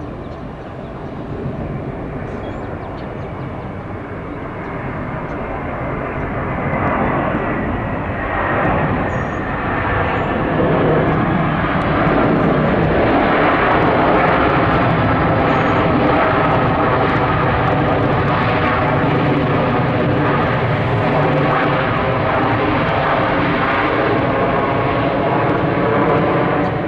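Jet airliner's engines growing louder over several seconds and then holding loud, with a whine of several tones that slowly falls in pitch.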